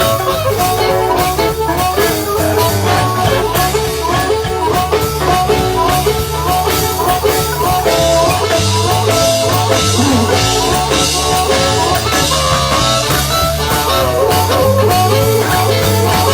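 Blues band playing an instrumental break: a lead line of repeated short phrases over bass and drums, with guitar.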